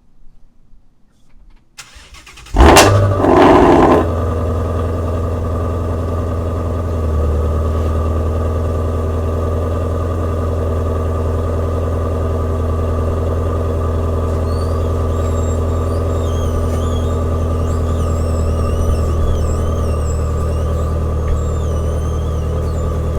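Shelby GT350's 5.2-litre flat-plane-crank V8 on a cold start. It catches about two and a half seconds in with a loud flare of revs lasting about a second, then settles into a steady idle.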